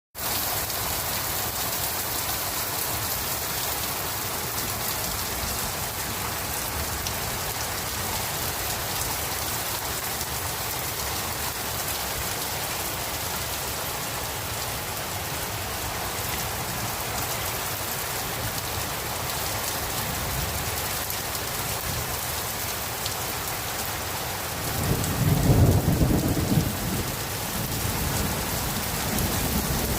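Heavy rain pouring down steadily in a thunderstorm, with a loud low rumble of thunder for about two seconds, roughly 25 seconds in.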